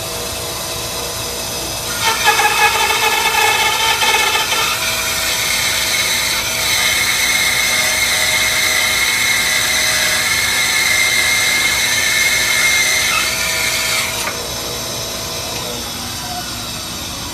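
Rikon 10-305 10-inch bandsaw with its 1/3-horsepower motor running, resawing a piece of poplar about 3 inches thick. The cut starts about two seconds in, turning the steady run into a louder, higher whine of blade through wood, and ends about fourteen seconds in, leaving the saw running free.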